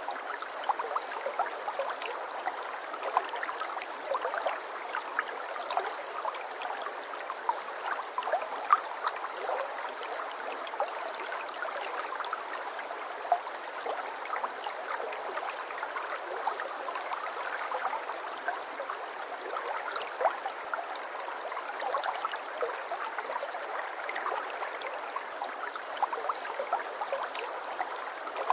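Shallow brook babbling steadily, water splashing and gurgling over stones with many small, quick splashes.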